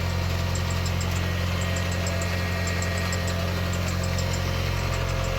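Car engine running steadily, a low, even drone.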